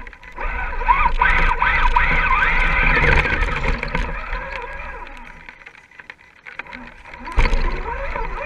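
RC rock crawler's electric motor and gears whining, the pitch rising and falling rapidly with the throttle, loudest during the first four seconds and picking up again near the end, over low wind rumble.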